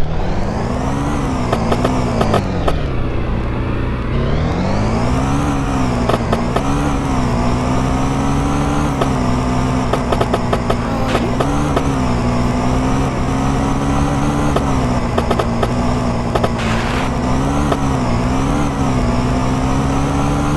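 Moped engine running hard, its pitch rising and falling again and again as the throttle is opened and closed; it drops about three seconds in, then revs back up.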